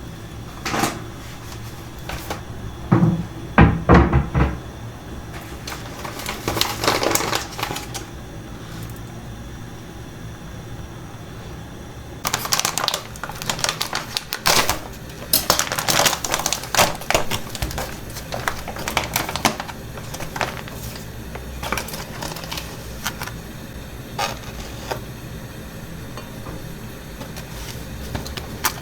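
Kitchen handling sounds: dishes and utensils clinking and knocking. There are a few heavier thumps about three to four seconds in, a dense run of clicks and clatter from about twelve to twenty seconds, then only scattered clicks.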